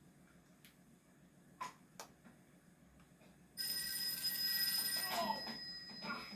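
Telephone bell ringing: a sudden loud ring starting about three and a half seconds in, held for about a second and a half, then fading away.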